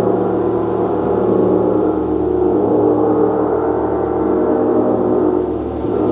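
Gong played continuously in a sustained, shimmering wash of many overlapping steady tones, with a brief dip in loudness near the end.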